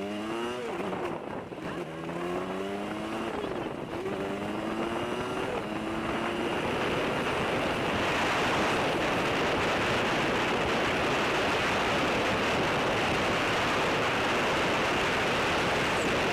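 Motorcycle engine accelerating, its pitch rising in several steps as it shifts up through the gears. From about six seconds in, a steady rush of wind on the microphone at riding speed builds up and covers the engine.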